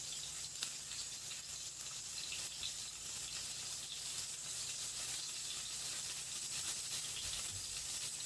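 Fish frying in oil in a pan, a steady sizzle with a few faint crackles.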